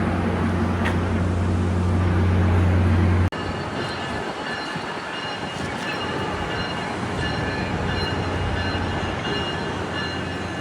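A train running: a loud steady low hum for about the first three seconds, then an abrupt cut to rumbling rail noise with faint high-pitched squeal tones.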